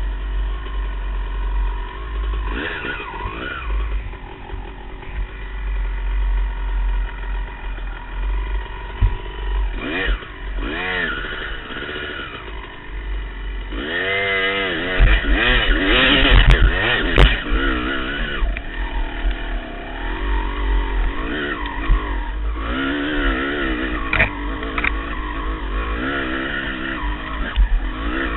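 250cc two-stroke dirt bike engine revving hard and repeatedly on a hillclimb, its pitch rising and falling with each burst of throttle, hardest about halfway through, over a low wind rumble on the helmet-mounted microphone.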